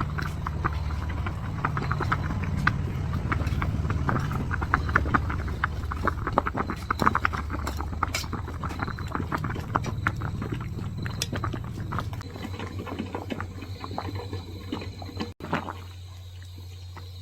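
Liquid bubbling and splashing: a dense run of small pops and clicks over a low steady hum, stopping abruptly about fifteen seconds in.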